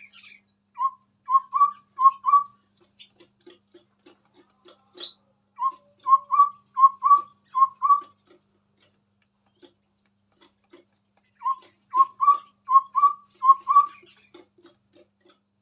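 Chestnut-rumped babbler (tepus tunggir merah) singing: three phrases of short, clear whistled notes on one pitch, each note slightly rising, five notes in the first phrase and seven in each of the next two, several seconds apart. Softer, lower short notes are scattered between the phrases.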